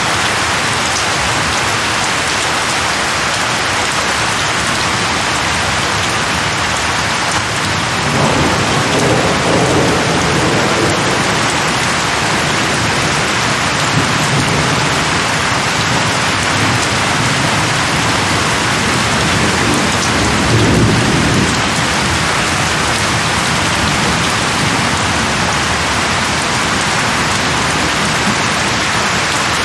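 Heavy rain falling steadily, with low thunder rumbling twice: once about a quarter of the way in and again a little past the middle.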